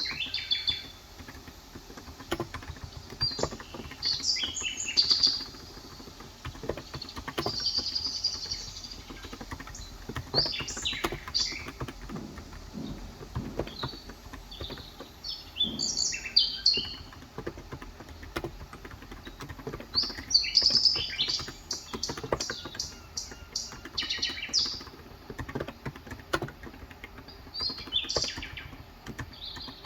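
Small birds chirping in short bursts every few seconds, over soft, continual keystroke clicks of typing on a COX Endeavor electrocapacitive 35 g tenkeyless keyboard.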